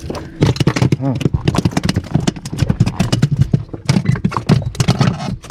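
A freshly landed fish thrashing on the inflatable boat's floor, its body slapping in a fast, irregular run of thuds.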